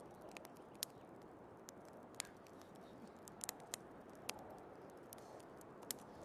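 Wood fire crackling with sharp, irregular pops over a steady, soft rush of snowstorm wind.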